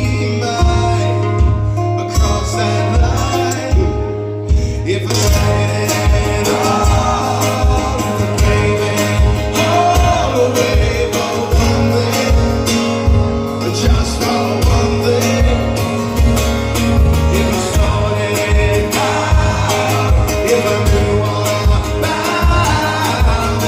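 Live rock band playing loudly: electric guitars and bass over a steady kick-drum beat, with a male lead voice singing. The band gets fuller about five seconds in.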